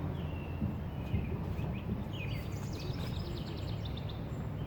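Songbirds chirping and trilling, with several short whistled notes and a quick run of repeated notes about three seconds in, over a steady low rumble.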